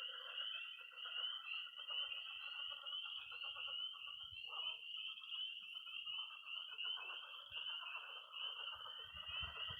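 Night chorus of frogs and toads: a dense, continuous high peeping of spring peepers over pulsed croaking of pond frogs lower down. A steady high-pitched toad trill runs through the first few seconds and starts again near the end.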